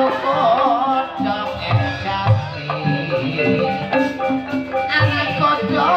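Live ebeg accompaniment music in gamelan style: struck metallophones ringing out steady notes over drum strokes, with a wavering high melody line near the start and again near the end.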